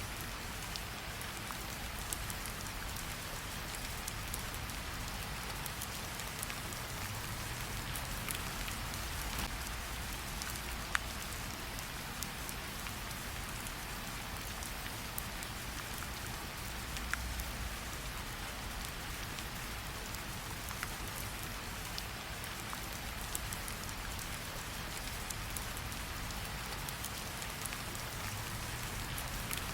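Steady rain falling, an even hiss with a low rumble beneath, broken by scattered sharp ticks and pops.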